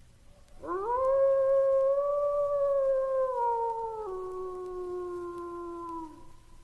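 A wolf howling: one long howl that rises at the start, holds steady, then drops lower in pitch in steps before fading out near the end.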